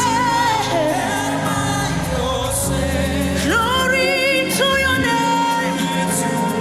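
Gospel worship song: a voice holds long notes that glide between pitches, over sustained low accompaniment.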